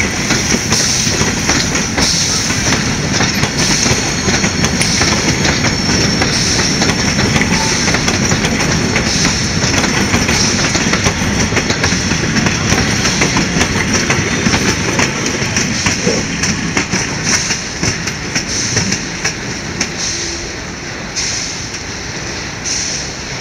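Steam-hauled train running over the rails, its wheels clattering over the rail joints in a steady clickety-clack, growing quieter over the last few seconds.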